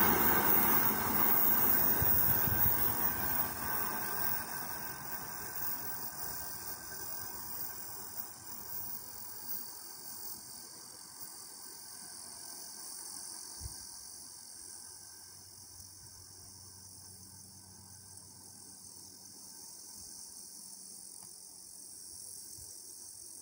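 Container freight train wagons rolling away along the track, their wheel noise fading over the first several seconds, leaving a steady high chirring of insects.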